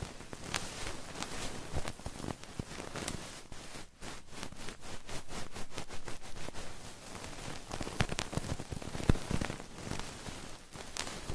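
Close-miked ASMR trigger sounds: irregular crackling, scratching and clicking right at the microphone, with a quick run of clicks around the middle.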